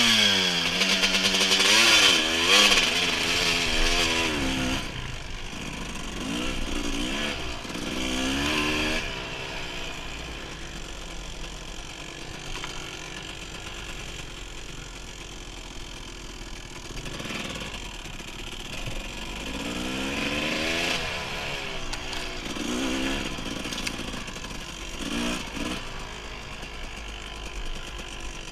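Dirt bike engine revving up and down as it rides trail, loudest in the first few seconds, easing to a lower, steadier run in the middle, then climbing and dropping in pitch again near the end.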